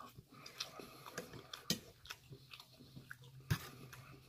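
Close-up chewing of a mouthful of food: soft, irregular wet mouth clicks and crackles, with two sharper clicks about one and a half and three and a half seconds in.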